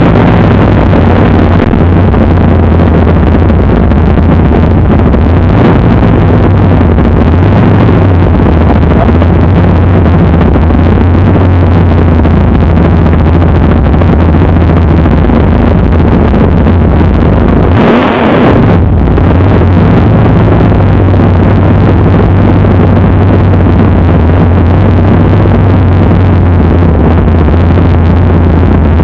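A 1965 Mustang drag race car's engine running steadily, loud and low-pitched, with one quick rev blip, rising and falling in pitch, about two-thirds of the way through.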